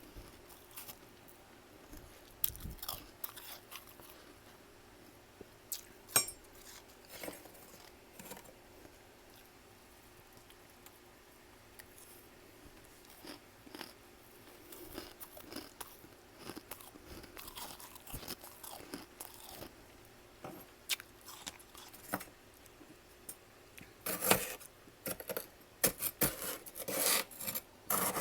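Freezer frost being chewed up close: scattered crunches with quiet gaps between them, coming thicker and louder near the end.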